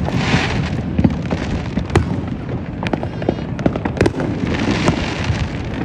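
Fireworks going off: a steady run of sharp bangs and pops over a continuous low rumble, with a burst of crackling hiss at the start and another about five seconds in.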